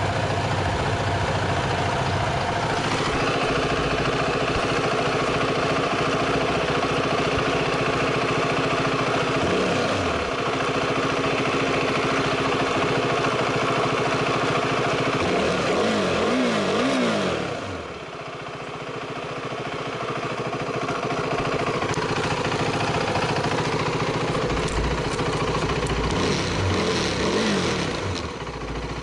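KTM 390 Duke's single-cylinder engine idling while it warms up from a cold start on stale fuel, with a few quick throttle blips: one about a third of the way in, a cluster about halfway through, and more near the end.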